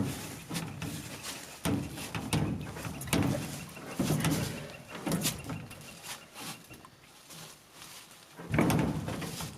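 Large bolt cutters being forced against a heavy lock and chain, with sharp clicks from the jaws and a series of strained grunts of effort, about six pushes in all.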